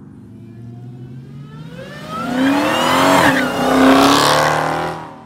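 Dodge Charger accelerating hard past, its engine note climbing and growing loud from about two seconds in, then fading quickly near the end.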